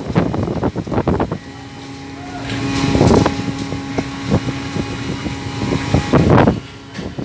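Wind buffeting the microphone over a fishing boat's steady engine drone. The gusts are loud for the first second and a half, then ease, leaving a steady hum. They return briefly a little after six seconds.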